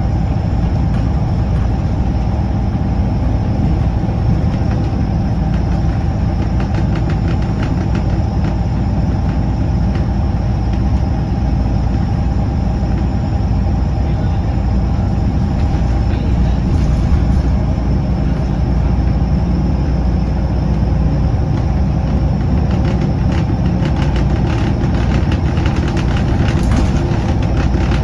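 Scania L94UB bus's diesel engine running steadily with road noise, with bursts of short clicks or rattles in the last few seconds.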